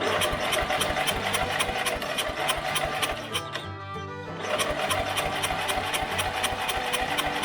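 Briggs & Stratton engine on a riding mower cranked over by its starter in two bursts of about three and a half seconds each, a fast, even chugging, with starting fluid sprayed in but the engine not catching. Bluegrass-style background music plays underneath.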